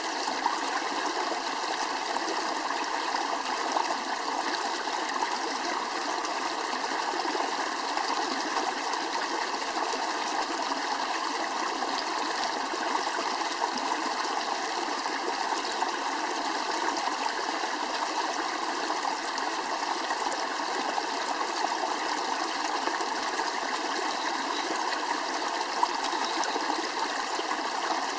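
Steady rushing of running water, like a nearby stream, with no break.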